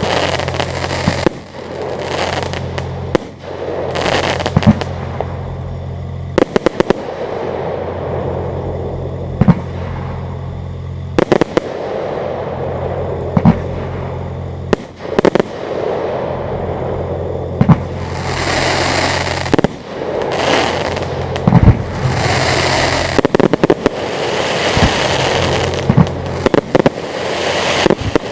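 Aerial fireworks display: shells bursting with sharp bangs every second or two, and stretches of dense crackling late on. A steady low hum runs underneath, stopping and starting now and then.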